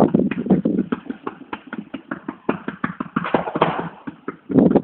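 Fireworks going off in a rapid, irregular string of bangs and crackles, several a second.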